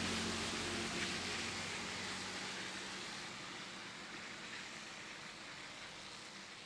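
A vehicle passing by, its engine hum and tyre noise loudest at first and then fading away steadily. Crickets' chirping comes through faintly near the end.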